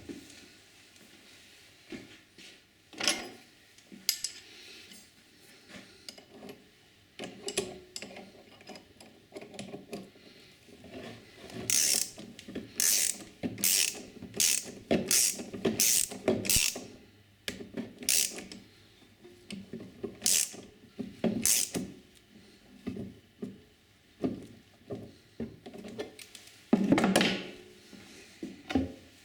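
Parts of a tram gear shifter being handled and fitted together: scattered knocks, then a run of about a dozen sharp clicks in the middle, and one louder knock near the end.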